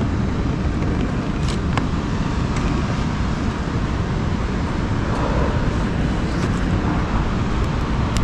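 Honda CBR600RR inline-four engine running steadily through an Akrapovic exhaust, with a few faint ticks scattered through it.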